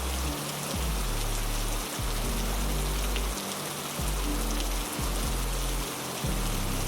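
Heavy rain falling steadily, over a bed of low sustained music notes that change about once a second.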